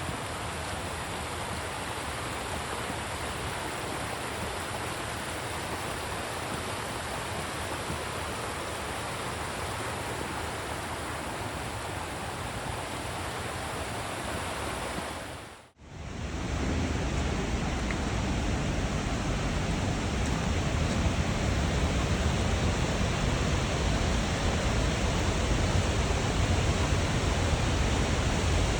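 Steady rush of falling and flowing water from Abiqua Falls and its creek. Just past halfway the sound drops out for a moment and comes back louder, with more deep rumble.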